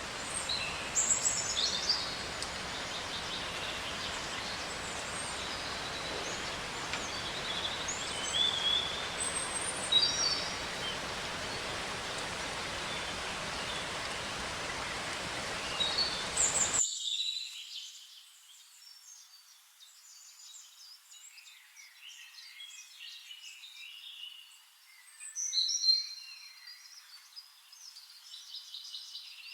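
Several wild birds chirping and trilling in short high calls over a steady hiss of background noise. About halfway through, the hiss cuts off abruptly, leaving the quieter birdsong on its own.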